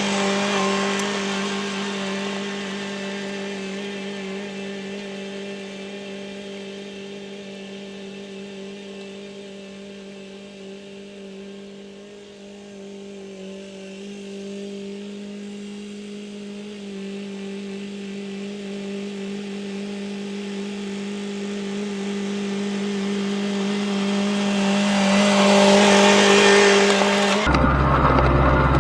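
Tractor engine running steadily at constant speed while plowing. It fades as the tractor moves away, is faintest about halfway through, then grows louder as it comes back, and cuts off abruptly near the end.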